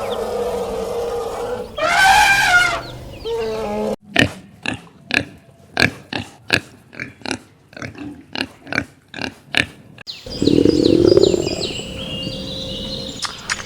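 A cat meowing, then, after a sudden cut, a run of about a dozen short grunts at roughly two a second. A second cut near the end brings in a different animal sound, with high, stepped squeaks.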